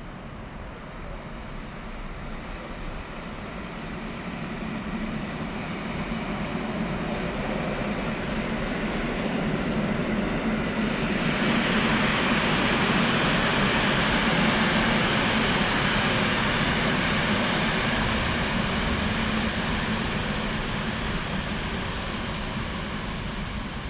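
Train running past on the tracks. It grows louder as it approaches and is loudest about halfway through, with a rushing rail and wheel noise over a steady low hum, then eases off slightly near the end.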